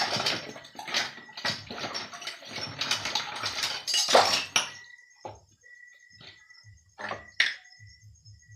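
Tap water running over dishes as they are washed by hand, with clattering; the water stops about four and a half seconds in, followed by a few separate knocks of dishes.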